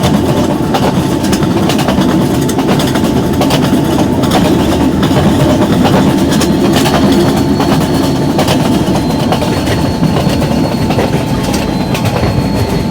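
Train running at speed, with a continuous loud rumble and the repeated click-clack of wheels over rail joints.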